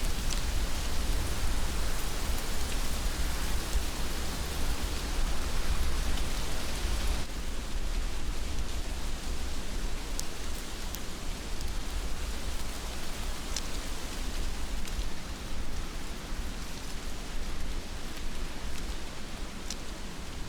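Steady heavy rain falling, a dense hiss over a low rumble, with scattered sharp drop ticks. About seven seconds in the hiss becomes a little duller.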